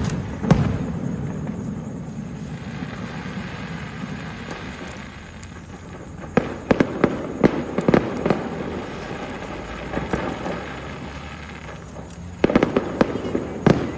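Fireworks going off: sharp bangs over continuous crackling, with a rapid volley of bangs about six to eight seconds in and another near the end.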